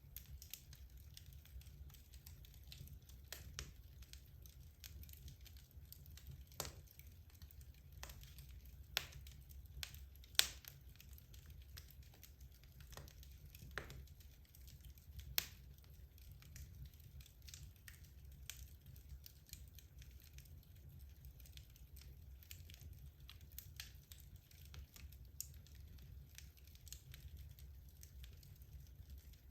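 Wood logs burning in a fireplace: irregular crackles and pops over a low steady rumble, with the sharpest pops about a third and halfway through.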